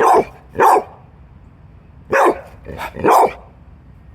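Blue-nose pit bull barking during play: two barks right at the start, then two more about two and three seconds in.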